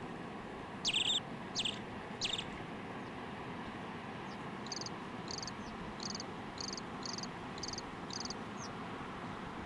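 A bird calling: three loud, high chirps in the first couple of seconds, then a run of about eight shorter, higher chirps at roughly two a second, over a steady background hiss.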